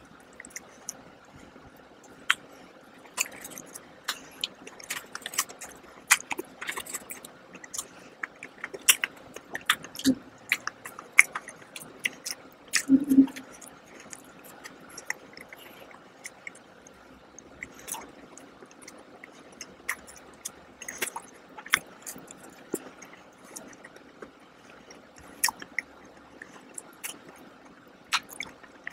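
Close-miked wet chewing and lip-smacking on a soft frosted donut, heard as a stream of sharp, irregular mouth clicks. A short low hum comes about ten seconds in and a louder one about thirteen seconds in.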